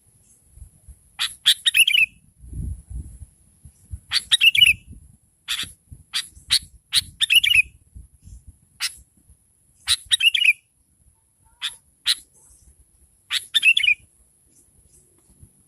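Sooty-headed bulbul (kutilang) calling repeatedly: a short phrase of sharp notes ending in a falling warble, about every three seconds, with single sharp chips in between.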